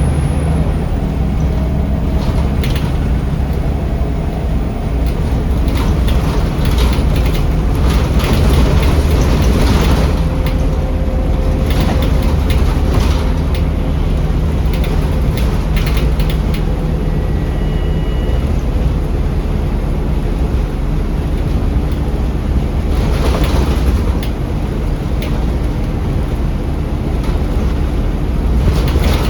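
Scania L94UB city bus heard from inside the cabin while under way: a steady low engine drone with road noise, and bursts of body and fitting rattles now and then.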